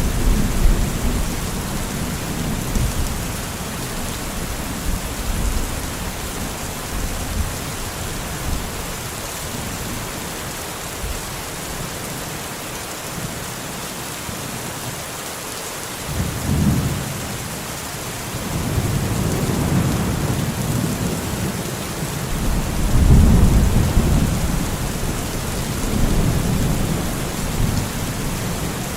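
Steady rain with rolling thunder from a thunderstorm. The deep rumbles ease off for a few seconds around the middle, then roll back in several waves, the loudest a little over three-quarters of the way through.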